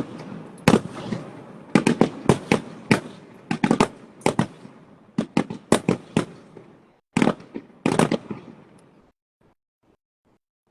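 Aerial fireworks bursting in a rapid string of sharp bangs, each with a short echoing tail. A last few bangs come about seven to eight seconds in, then the bursts thin to faint pops and stop.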